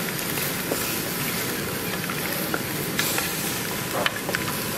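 Spicy pork ribs sizzling in red chili sauce in a wok, stirred with a wooden spatula. A few sharp knocks of the spatula against the pan stand out, the clearest about three and four seconds in.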